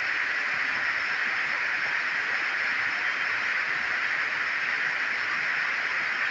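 Heavy rain falling steadily: a constant, even hiss.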